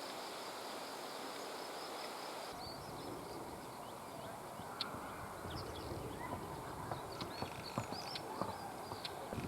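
Bluethroat singing: a quick run of varied short chirps, whistles and dry clicking notes, beginning about two and a half seconds in. Before that, a steady high insect trill.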